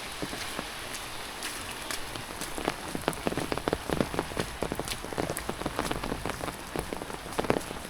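Rain falling, a steady hiss with many sharp drops hitting close by, thickest from about two and a half seconds in until near the end.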